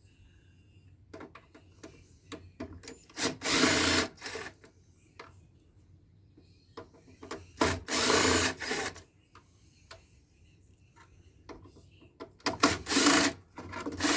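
Cordless drill-driver running in three short bursts of about a second each, backing out the screws of a solar inverter's casing, with scattered clicks and rattles of screws and parts between the bursts.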